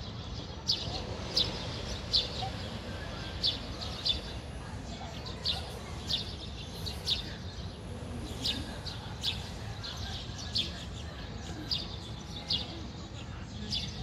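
Small birds chirping: short, sharp single chirps repeated irregularly, about one a second, over a low, steady background rumble.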